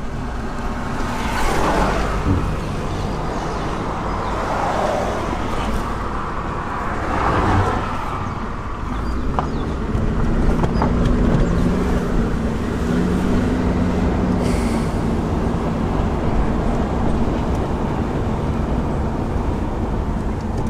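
A car driving along a road: steady engine and road noise, the engine's hum growing stronger and more even about halfway through.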